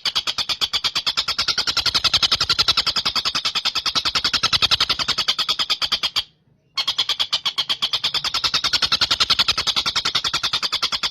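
Tengkek buto (stork-billed kingfisher) calling in a fast, unbroken rattling trill of rapid high notes, with a brief break about six seconds in.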